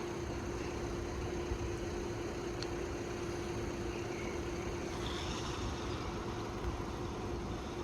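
A motor vehicle engine idling steadily: a constant hum over a low rumble.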